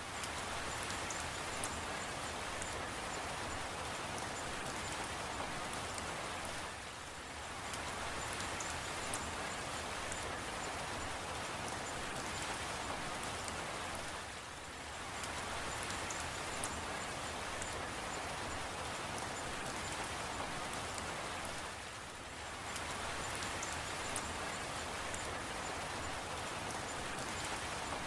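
Steady rain falling, an even hiss of drops with fine ticks of individual drops; the level dips briefly about every seven and a half seconds.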